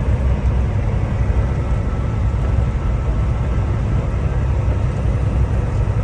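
Semi truck under way on the highway: a steady, low engine and road rumble with no change in pace.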